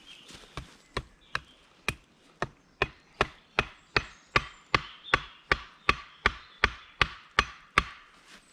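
Wood being chopped with a hand tool in a fast, even series of strikes, about two to three a second, growing louder after the first few.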